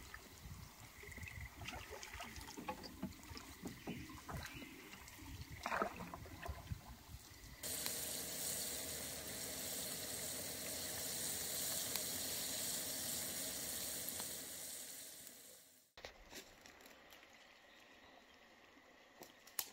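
Water dripping and lapping around a canoe under way. About eight seconds in, it gives way to a pan of food frying in oil over a campfire: a steady sizzle that fades out a few seconds before the end. After that it is quiet, with only a faint steady high tone and a few clicks.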